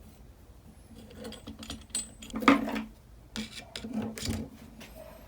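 Irregular light clicks, knocks and scraping of small metal engine parts being handled and tapped, with one louder knock about two and a half seconds in.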